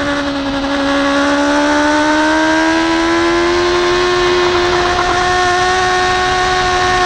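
BMW S1000RR inline-four engine running hard at high revs on track; its note dips slightly in the first second, then climbs gradually and holds steady.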